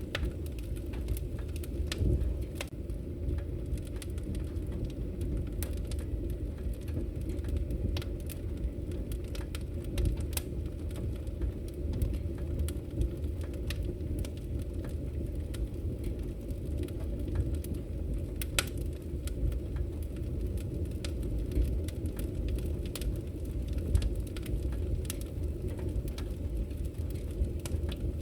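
Wood fire burning in a fireplace: a steady low rumble of the flames with frequent irregular crackles and a few sharper pops of the logs.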